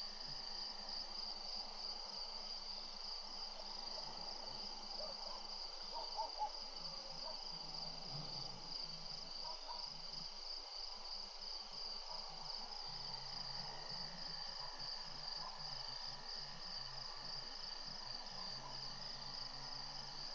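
A steady, high-pitched chorus of night insects trilling without a break. About six seconds in, two brief louder ticks stand out over it.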